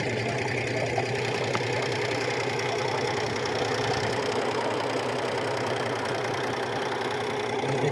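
Drain-cleaning machine running steadily at an even pitch while a clogged main drain is cleared.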